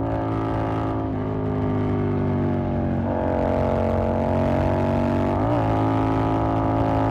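Yamaha MT-07's 689 cc parallel-twin engine through an SC Project aftermarket exhaust, running steadily at cruising speed. The pitch shifts slightly about one and three seconds in, with a brief quick throttle change about five and a half seconds in.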